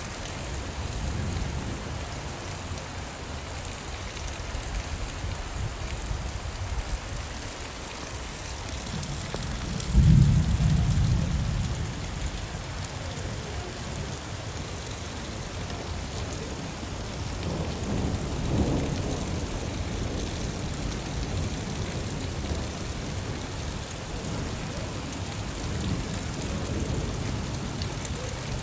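Steady rain falling, with low rolls of thunder. The loudest roll comes about a third of the way in, and softer ones follow later.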